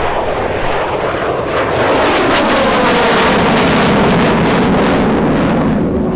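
PZL-Mielec Lim-5 (licence-built MiG-17F) flying past low in landing configuration. Its Klimov VK-1F turbojet swells to a loud rushing roar at mid-pass, and the engine's whine falls in pitch as the jet goes by.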